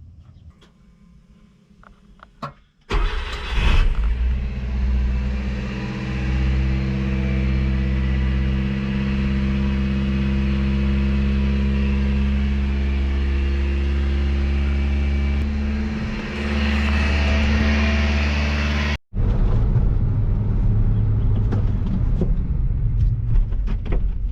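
Supercharged Subaru Sambar kei truck driving. A few faint clicks, then about three seconds in the engine and road noise come in abruptly and hold a steady pitch at cruising speed. The sound dips briefly near the end, cuts out for an instant, and comes back as rougher driving noise.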